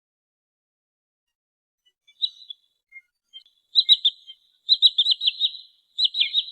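Sandpiper (trinil sawah) calls, a recording used as a lure: silent at first, then a short note about two seconds in, followed by three quick runs of sharp, high-pitched chipping notes.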